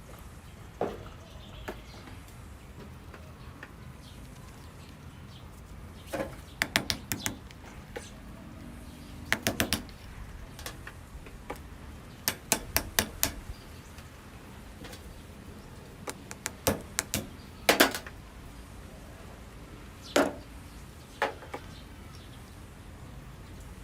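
Sharp clicks and taps of hand work on small hard parts, coming in short clusters of several quick strikes with pauses between.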